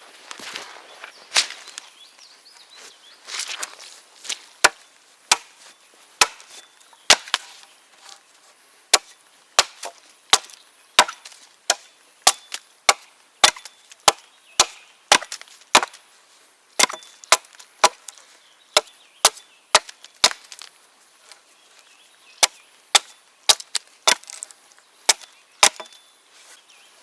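Birch firewood being worked: a long run of sharp wooden knocks and clacks, roughly one to two a second with a few short pauses.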